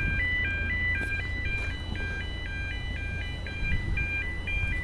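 UK level crossing audible warning alarm sounding: an electronic two-tone warble stepping quickly back and forth between a lower and a higher pitch, over a steady low rumble.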